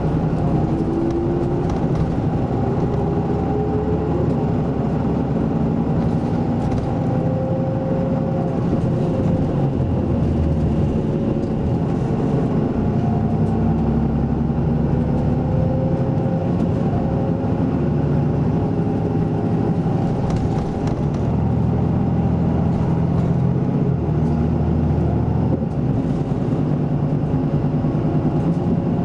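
Isuzu Erga Mio city bus heard from inside the cabin while under way: the diesel engine and Aisin automatic transmission run steadily. A whine rises in pitch several times as the bus pulls away and gathers speed.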